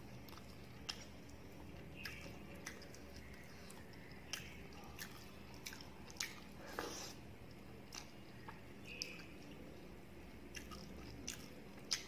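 A person chewing and smacking while eating rice and curry by hand, with fingers working the food on the plate: irregular short wet clicks and smacks, the loudest just before the end.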